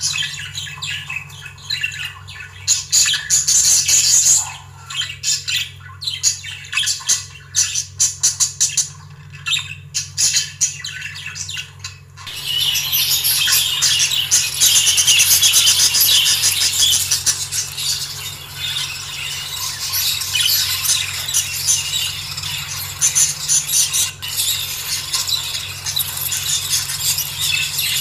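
A flock of budgerigars chattering and squawking: in short bursts at first, then from about twelve seconds in a dense, unbroken chatter. A steady low hum runs underneath.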